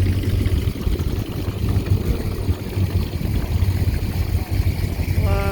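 Car engine running as a vehicle drives slowly past, with a steady low rumble and wind buffeting the microphone.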